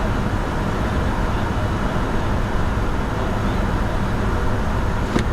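Steady cockpit noise of a Bombardier Challenger 605 business jet in flight: air rushing past the flight deck over the hum of its twin GE CF34 turbofans. A single short click sounds near the end.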